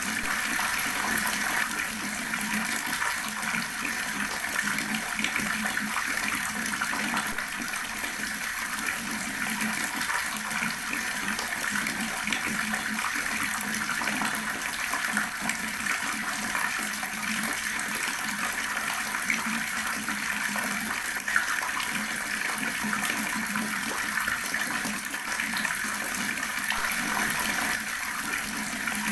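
Water running steadily from an outdoor tap and splashing, a continuous even rush with no breaks.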